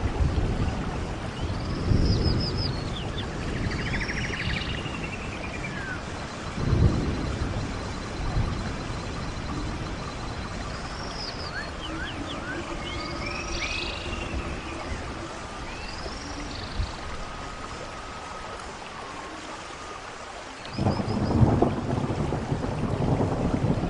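Birds chirping and trilling with short repeated high calls, over a low rumbling noise that swells near the start, about seven seconds in, and again from about twenty-one seconds in.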